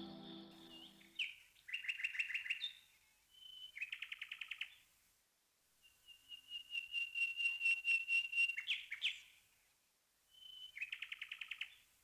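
A songbird singing in four separate phrases, each a short high whistle followed by a rapid trill of notes. Background music fades out during the first second.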